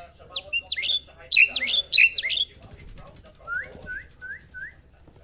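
A pet bird chirping: a quick run of loud, sharp, downward-sweeping chirps, then four short, softer whistled notes near the end.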